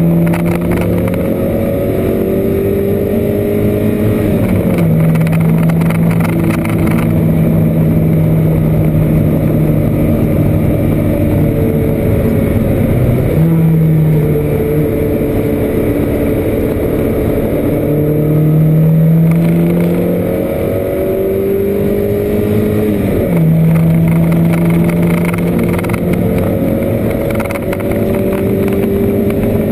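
Porsche 924 race car's four-cylinder engine heard from inside the cockpit under hard racing, its note climbing and then dropping at gear changes several times, near 4, 13, 19 and 23 seconds in, over road and wind noise.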